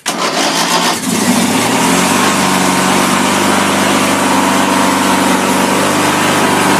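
Briggs & Stratton engine of a Craftsman 42-inch lawn tractor cold-started on choke: the starter cranks for about a second, then the engine catches and runs steadily.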